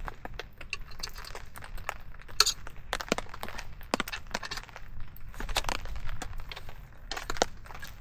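Parts of a collapsible camp table clinking and knocking together as it is fitted and pressed into place, a string of irregular light clicks and rattles. The table keeps coming apart because the ground under it is not flat.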